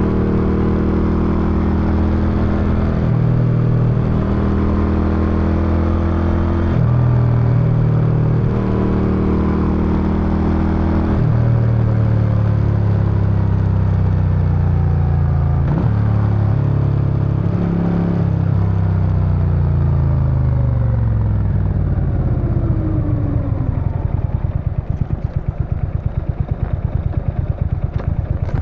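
Suzuki Intruder VS800's V-twin exhaust under way, its note stepping up and down several times. About two thirds of the way in it winds down, and it settles into a pulsing idle for the last few seconds.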